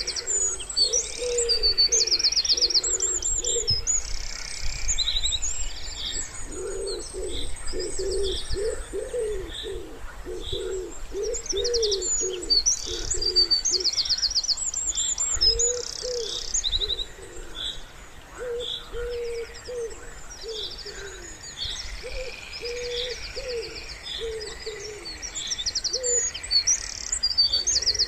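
Wood pigeon cooing in repeated low phrases, with small songbirds chirping and trilling high above it.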